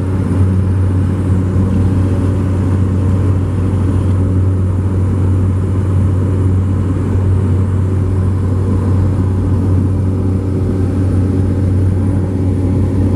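Airplane engine running steadily during take-off, a loud, even low drone with no change in pitch.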